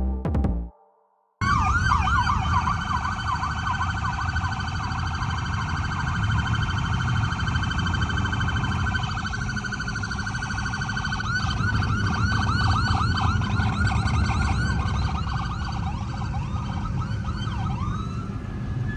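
Several police sirens wailing and yelping at once, overlapping, over a steady low rumble, starting suddenly after a brief silence about a second and a half in.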